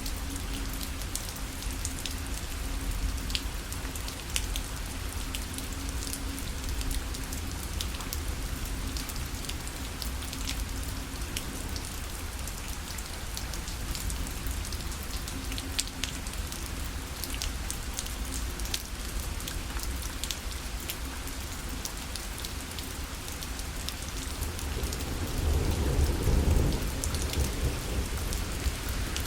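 Steady rain pattering on a parasol, with many sharp individual drop taps over the hiss. A louder low rumble swells up about 25 seconds in.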